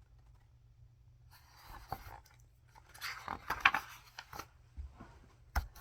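Paper rustling as the pages of a picture book are handled and turned: two short spells of crinkling with a few sharp clicks, and a single click near the end.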